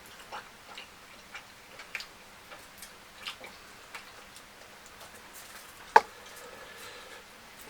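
Mouth sounds of someone eating fried fish with fufu and curry: irregular wet smacks and clicks of chewing, with one sharp, much louder click about six seconds in.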